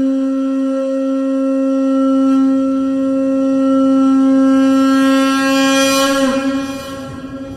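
A conch shell (shankha) blown in one long steady note, which wavers and dips slightly about six seconds in, then fades away.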